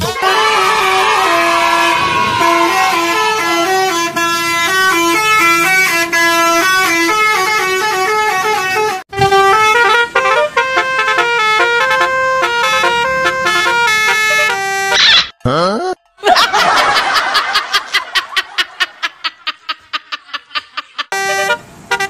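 Basuri telolet multi-tone bus horn playing a tune of short stepped notes, one after another. About two-thirds of the way through comes a quick rising whine, then a burst of rapid pulses that slow down and fade, before the horn tune starts again near the end.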